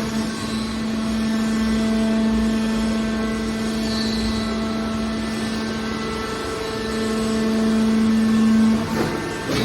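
Metal baler's hydraulic power unit running: a steady motor-and-pump drone with a constant low hum. It swells louder for a couple of seconds near the end, then drops off abruptly.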